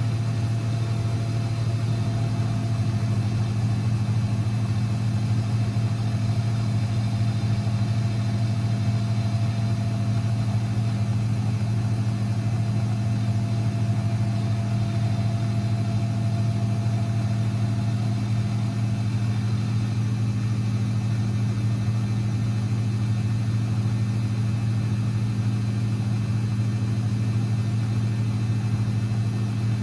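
Constructa Energy 1000s washing machine running with a steady, even hum that holds unchanged throughout.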